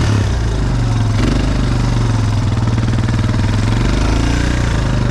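ATV engine running steadily at close range.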